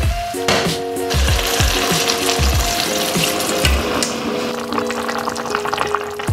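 Background music with a steady beat over stir-fried pork and vegetables in black bean sauce sizzling in a hot wok as water is poured in.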